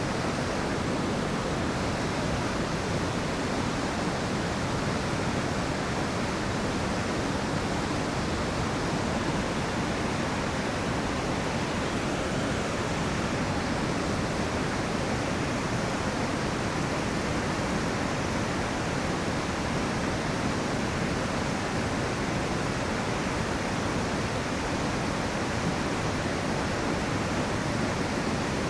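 Rushing river water: a steady, unbroken rush with no other events.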